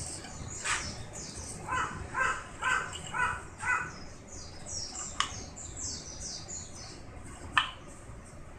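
Birds calling outdoors: a run of about five short, harsh calls about half a second apart, over steady high chirping of small birds, with two sharp clicks later on.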